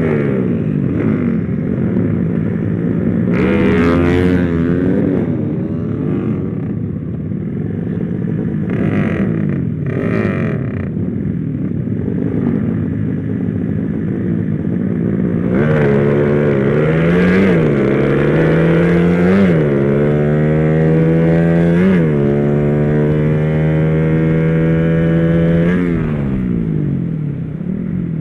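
Motorcycle engine, freshly rebuilt, accelerating hard: the pitch rises and falls at first, then climbs and drops back at three gear changes, holds at high revs, and eases off near the end.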